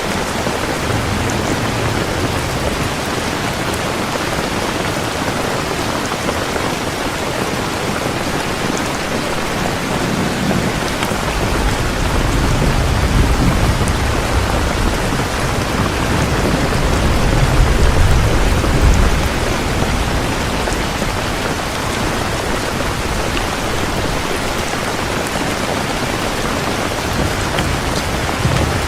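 Heavy rain falling steadily. A long, low thunder rumble builds about a third of the way in, peaks a little past the middle and fades out.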